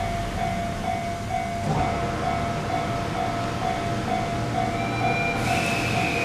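Japanese level-crossing warning bell ringing at about two strikes a second as an E351-series electric train comes through. About five seconds in the train reaches the crossing with a sudden rush of noise, and its whine begins to fall in pitch as it passes.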